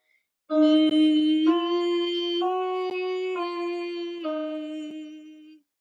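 A woman's voice in a vocal warm-up exercise, singing a scale pattern up three notes and back down, each note held about a second with the vowel shape changing between notes.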